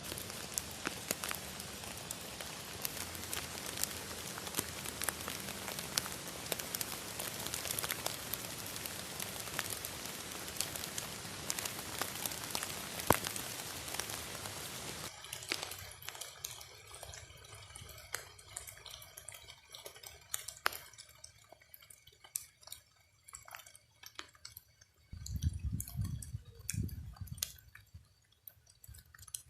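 Rain falling steadily, with many drops hitting a surface. About halfway through it gives way suddenly to sparse separate drips, and there is a short low rumble near the end.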